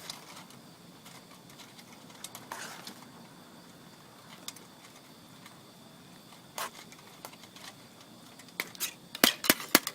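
A spoon stirring in a metal cook pot, mixing powdered coconut milk into rice: mostly quiet, with a few light scrapes and clicks, then a quick run of sharp clinks against the pot near the end.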